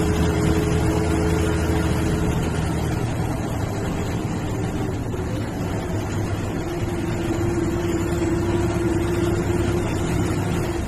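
Bus engine and road noise running steadily while the MSRTC sleeper/seater bus is under way, with a steady hum in the first two seconds and again from about six to ten seconds in.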